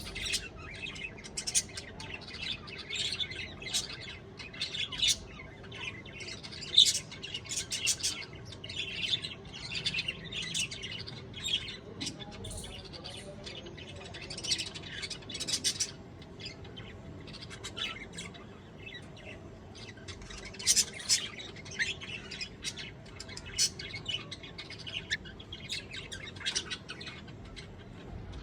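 A bird calling over and over with short, sharp, high chirps and squawks in irregular bursts, with brief pauses between clusters.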